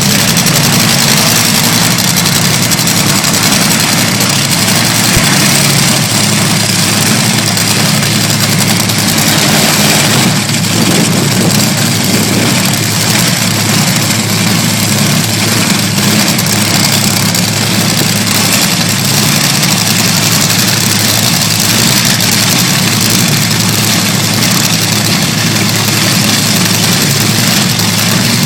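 Top Fuel dragster's supercharged nitromethane V8 running at idle, loud and steady.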